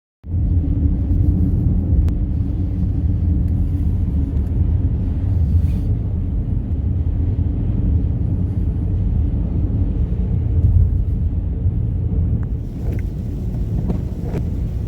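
Wind buffeting the microphone: a loud, steady low rumble that sets in abruptly and holds throughout.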